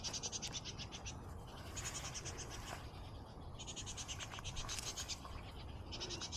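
A small animal's rapid pulsed trill, about ten pulses a second, repeated four times in calls of roughly one to one and a half seconds, some higher-pitched than others.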